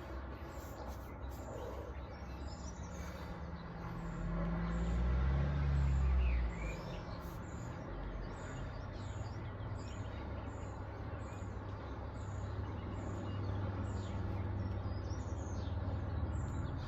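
Low, steady traffic rumble, swelling as a vehicle passes about four to six and a half seconds in. A bird chirps over and over at an even pace, roughly one chirp a second.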